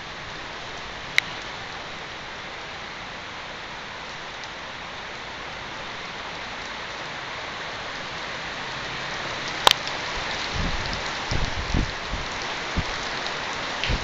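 Heavy rain falling steadily, growing a little louder in the second half. Two sharp clicks stand out, one about a second in and a louder one near the ten-second mark, and several low thumps come in near the end.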